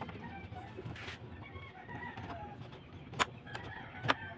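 Chickens clucking in the background, with two sharp clicks about three and four seconds in.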